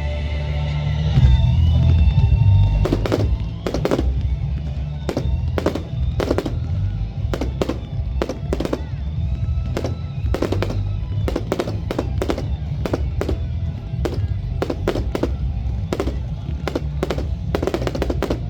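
Fireworks display going off in a rapid run of sharp bangs, several a second, starting about three seconds in, over music with a heavy bass.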